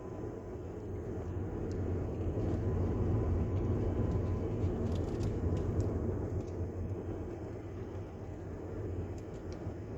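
Steady road and engine noise of a moving car, heard from inside the cabin, swelling a little in the middle, with a few faint clicks.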